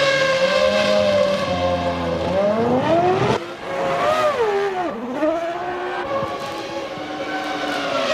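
Formula One car engines running at high revs, the pitch climbing as a car accelerates. About three and a half seconds in the sound changes abruptly to another car whose note rises and then dips sharply before settling into a steady run.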